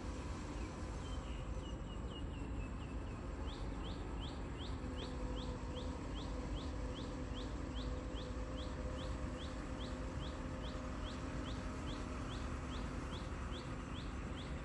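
A bird chirping over and over: a short run of quick falling notes, then evenly spaced short rising chirps about two a second, over a steady low hum.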